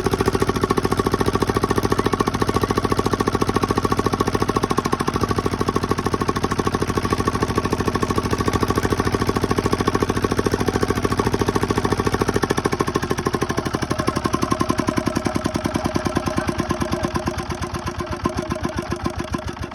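Diesel engine running fast with a rapid, even knocking beat. Near the end it slows, the beats spreading out and getting quieter.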